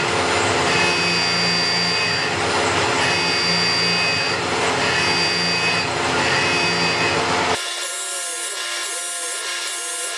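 CNC milling machine cutting metal: a dense, steady machining noise with tones that come and go about once a second as the tool passes. About seven and a half seconds in it changes abruptly to a thinner, higher cutting sound with a quicker repeating pattern.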